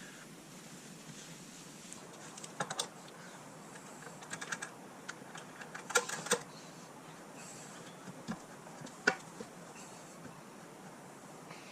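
Scattered light clicks and taps, some in quick little clusters, the sharpest twice about six seconds in and once about nine seconds in: hands handling the pressure washer and the Pump Saver can.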